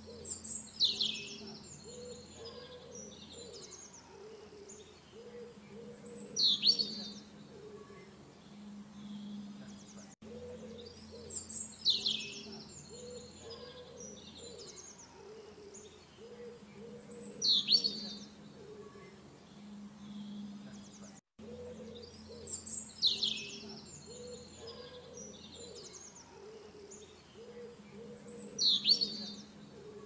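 Looped birdsong track: a bird's loud, high call sweeping downward, repeating about every five to six seconds over a faint low steady hum.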